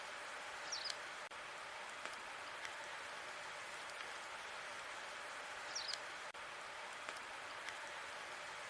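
Log fire crackling: a steady hiss with scattered small pops. Two brief high squeaks come about five seconds apart, near the start and about two-thirds of the way through.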